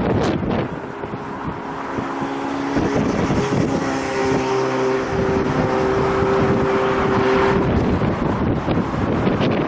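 A motor vehicle's engine hums with several steady tones, coming in about a second in and fading near the end, over wind buffeting the microphone.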